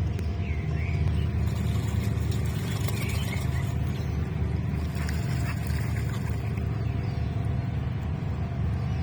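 Steady low background rumble, with a few faint short bird chirps near the start, about three seconds in and at the end.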